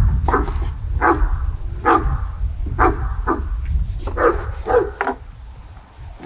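A dog barking repeatedly, about nine short barks spaced half a second to a second apart, over a steady low rumble.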